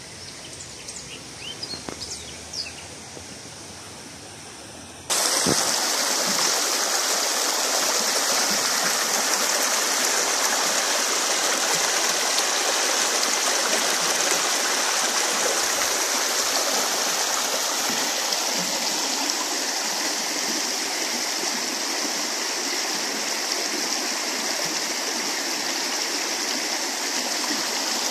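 Birds chirping a few times over a faint rush of water, then about five seconds in the sound jumps to a loud, steady rush of a flowing stream.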